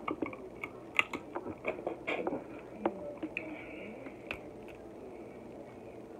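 Close-up eating sounds of Dungeness crab: chewing and smacking with sharp clicks and cracks, some from the crab-leg shell being pulled apart by hand. The cracks come thickest in the first four seconds and thin out near the end.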